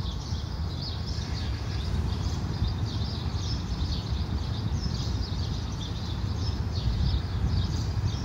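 Small birds chirping over and over, many short high chirps, over a low, uneven outdoor rumble.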